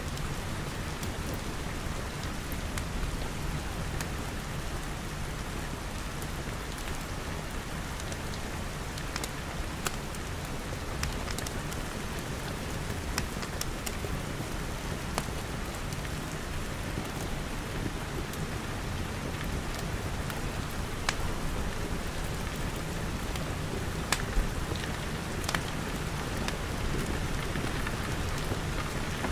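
Steady rain pattering on glass, with a low rumble beneath and scattered sharp clicks and pops from a crackling wood fire.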